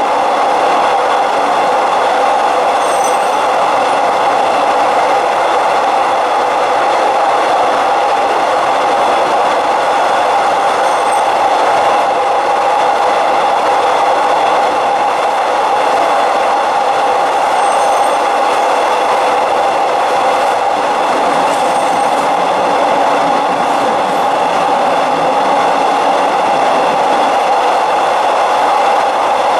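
Passenger train running steadily along the track: a constant running noise with a steady hum through it, and a few faint high-pitched chirps.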